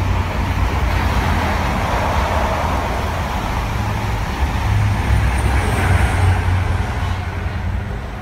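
An InterCity 125 high-speed diesel train running through the station: a steady rumble of engines and wheels on rail, loudest about five to six seconds in and fading near the end as it draws away.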